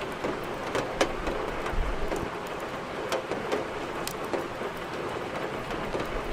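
Steady rain hiss with scattered sharp crackles of burning firewood in a fireplace, and a brief low rumble about two seconds in.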